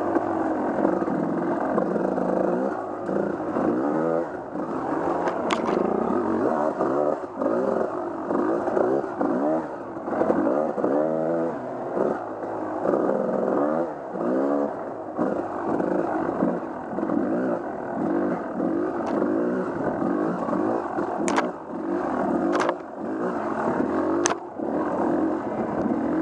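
Off-road vehicle engine under way on a trail, revving up and down over and over, its pitch rising and falling every second or two. A few sharp knocks sound through it, mostly near the end.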